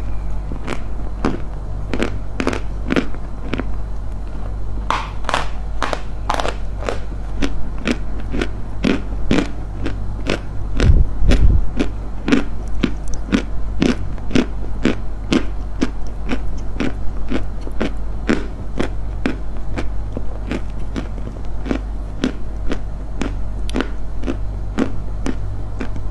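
Dry crunching, repeated steadily at about two to three crisp crunches a second, over a steady low hum, with a few heavier low thumps about eleven seconds in.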